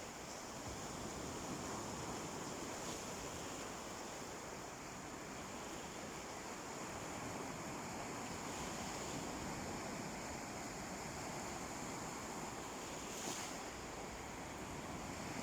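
Waves of a calm sea washing steadily onto the beach, rising and falling gently in a continuous wash.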